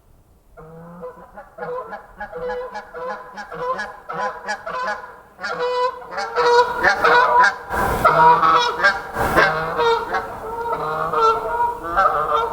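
A flock of geese honking: many short calls overlapping, building up and growing louder about halfway through. Two brief low thumps come through the calls in the second half.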